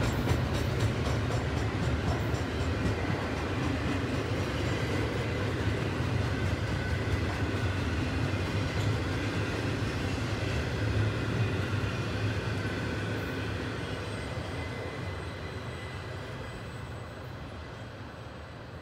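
Double-stack intermodal container cars rolling past, their steel wheels rumbling and clicking over the rail joints. The sound fades away over the last several seconds as the end of the train passes and recedes.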